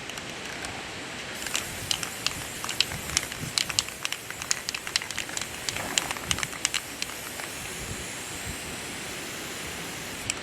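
Aerosol spray paint can spraying: a steady hiss that starts about a second and a half in, with many sharp clicks through the first several seconds.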